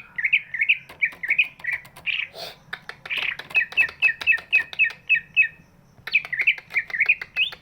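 Cucak ijo (green leafbird) singing a fast run of short rising whistled notes, with sharp clicks between them and a brief pause about six seconds in.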